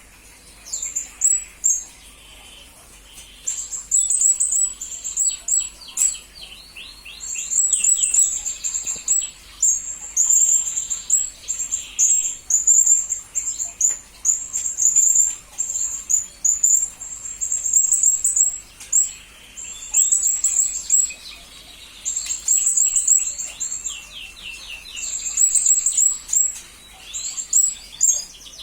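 Blue-crowned hanging parrot (serindit) calling: runs of very high, shrill chirps in bursts of a second or two with short pauses between, now and then mixed with quick series of lower clipped notes.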